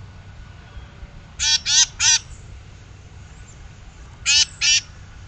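A bird giving short, harsh, raspy calls: three in quick succession about a second and a half in, then two more near the end.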